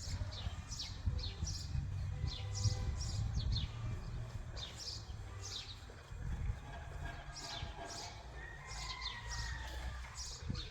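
Small birds chirping, many short high notes that fall in pitch, several a second, over a steady low rumble.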